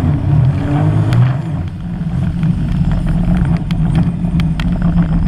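Sea-Doo GTR 215 personal watercraft engine running hard under way. Its pitch rises about a second in, then holds steady.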